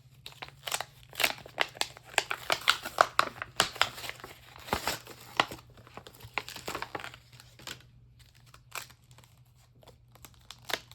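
Crinkling and rustling of a sheet of clear rubber stamps and its packaging being handled, busiest over the first seven seconds, then a few scattered clicks.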